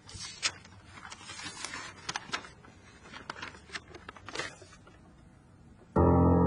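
Scattered clicks and rustling, irregular and fairly quiet, then about six seconds in loud music cuts in suddenly with long held notes.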